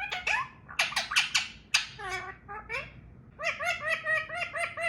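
Indian ringneck parrot calling: a few quick, sharp calls with falling pitch, then from about halfway a fast run of short, evenly repeated bark-like calls, its imitation of a dog barking.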